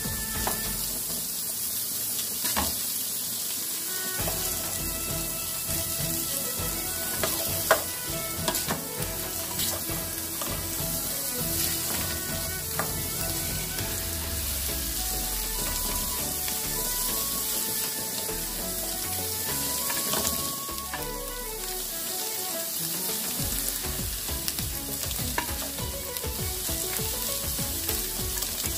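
Chicken pieces and chopped garlic sizzling steadily in a hot aluminium pan as they brown, stirred and scraped with a spatula, with a sharp knock of the spatula on the pan about eight seconds in.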